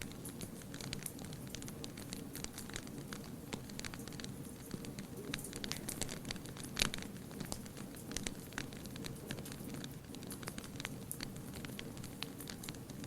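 Wood fire crackling, with irregular sharp pops and snaps over a low steady rumble of flame; one louder pop about seven seconds in.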